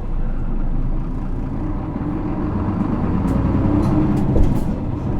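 Isuzu 6HK1 six-cylinder diesel of a 2009 Isuzu PKG-LV234L2 city bus running under way, heard from inside the passenger cabin. The engine hum is steady with a slight rise in pitch partway through, and there is a brief low thump about four seconds in.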